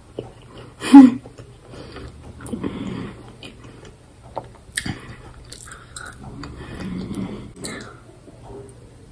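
Close-miked chewing and wet mouth sounds of a person eating pasta, with one short, loud mouth sound about a second in. Near the end she drinks from a glass.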